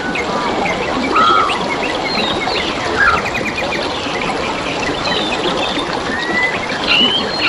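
Several wild songbirds chirping, trilling and whistling over a steady trickle of flowing stream water. A quick trill comes near the middle, with a flurry of short rising and falling whistles near the end.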